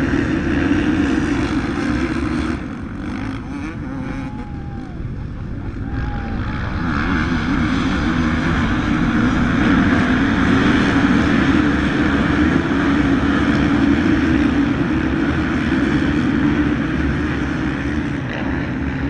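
A pack of motocross bikes running together, a dense buzzing engine drone that drops off for a few seconds near the start and then builds up loud again.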